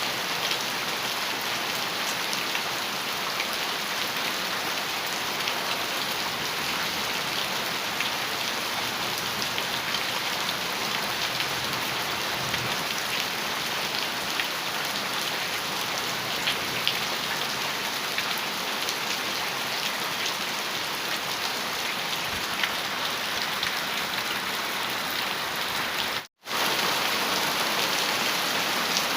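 Heavy rain falling steadily on a metal roof, a dense hiss with many small taps of individual drops. The sound cuts out for a split second near the end, then carries on slightly louder.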